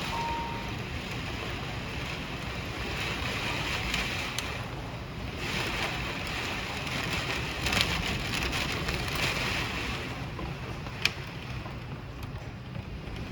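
Hailstorm with heavy rain: a steady hiss of rain and hail coming down, swelling and easing, with a few sharp clicks of hailstones striking hard surfaces, the loudest a little past the middle and again near the end.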